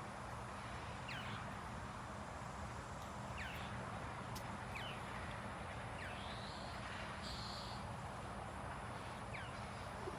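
A bird giving short, high, downward-slurred calls, about four spread a few seconds apart, over a steady background hum.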